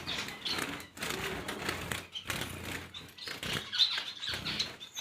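Caged pet birds making irregular chirps and rustles.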